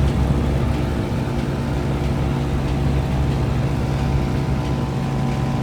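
2016 Lasko Power Plus heat pump running in heat mode: a steady low hum with fan and airflow noise. The fan is losing speed as the coil ices up ahead of a defrost cycle.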